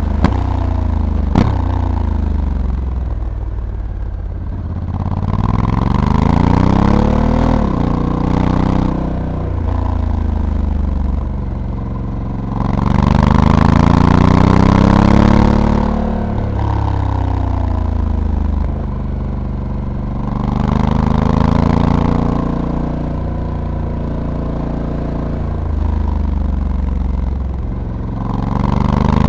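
Honda Africa Twin's 1084 cc parallel-twin engine heard onboard, its pitch rising under acceleration and falling again off the throttle several times as the bike rides through corners. Two sharp clicks come in the first couple of seconds.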